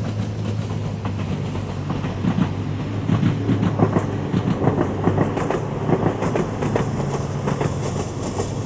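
Ohmi Railway 100 series electric train running by, its wheels clattering over rail joints in an uneven rhythm that is loudest about three to five seconds in, over a steady low hum.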